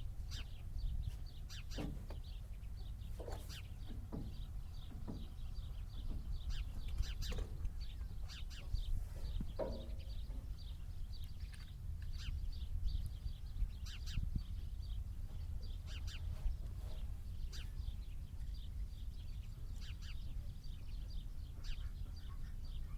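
Birds chirping on and off over a steady low rumble like wind on the microphone, with a few sharp clicks scattered through.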